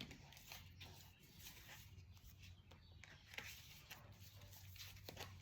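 Near silence: faint rustling and light ticks of a deck of tarot cards being handled and shuffled, over a faint steady hum.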